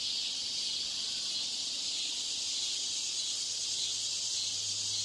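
Steady high-pitched hiss with a faint low hum underneath: deliberately added noise that imitates a poor exam-room broadcast system, heard during a silent answer pause.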